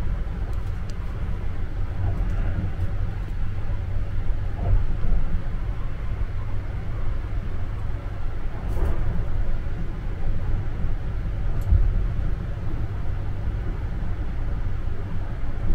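Sunrise Izumo sleeper train, a 285-series electric multiple unit, running along the line, heard from inside a compartment: a steady low rumble of the train in motion, with a few faint clicks.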